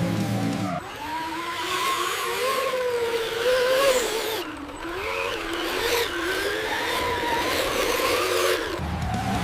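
A racing vehicle's motor revving as a high whine that rises and falls in pitch, over a rushing hiss. Background music cuts out under a second in and comes back near the end.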